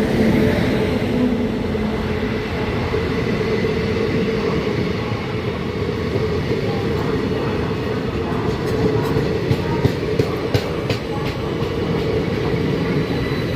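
Indian Railways train running on the track: a steady rumble with a constant low hum. From about seven to eleven seconds in there is a run of sharp clicks.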